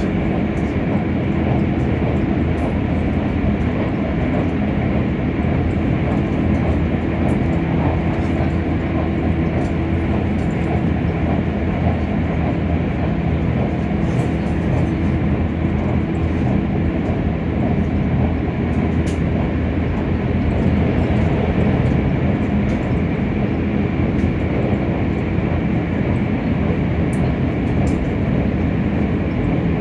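Keisei Skyliner express train running steadily, heard from inside the passenger car: an even rumble of wheels on rail with a constant hum and a few faint ticks.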